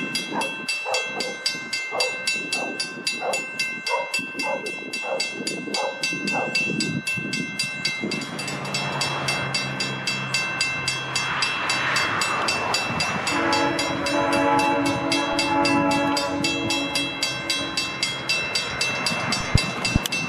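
A grade-crossing bell rings steadily with a fast even beat while a passenger train rolls by, its wheels clicking over rail joints for the first several seconds. About thirteen seconds in, a train horn sounds one long blast of about three seconds.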